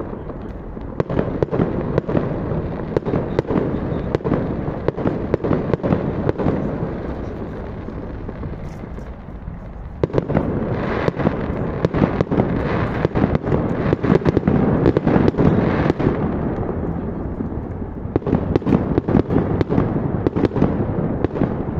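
Fireworks going off in a rapid, continuous string of bangs and crackles over a rumble. The firing eases a little, then a fresh volley starts suddenly about ten seconds in.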